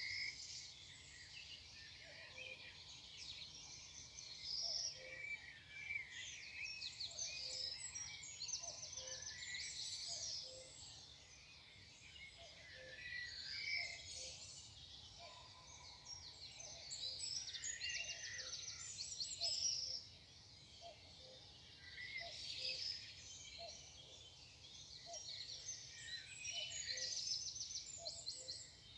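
Morning birdsong: several birds singing at once, with high chirps and short rapid trills coming again and again. Underneath, a faint low note repeats about once a second.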